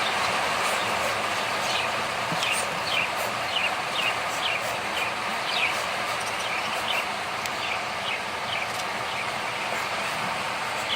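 Cage birds chirping, a run of short falling chirps several times a second that thins out near the end, over a steady hiss.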